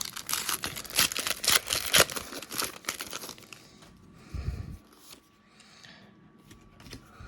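Foil wrapper of a Pokémon card booster pack crinkling and tearing as it is ripped open, a dense crackle for the first three seconds or so, then quieter rustling of the handled pack.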